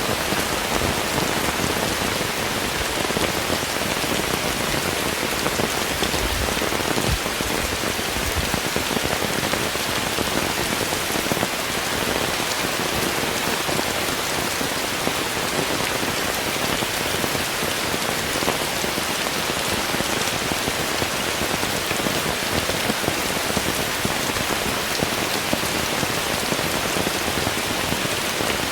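Steady heavy rain falling, a dense patter of drops.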